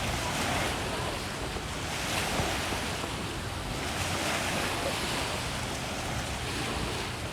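Sea waves washing against the shore, with wind buffeting the microphone. The wash swells a little about two seconds in and again near the middle.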